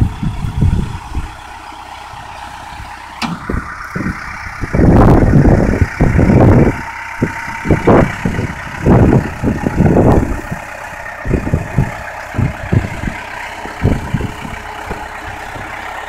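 Lifted pickup truck's engine running at idle, with irregular loud low rumbling surges over it, the strongest about five, eight and ten seconds in.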